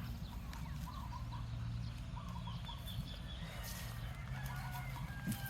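Poultry clucking in runs of short, quick calls over a steady low hum.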